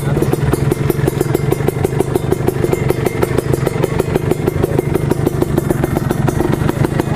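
Kawasaki Ninja 150R two-stroke single-cylinder engine running at a steady pitch while riding, with a fast, even pulsing.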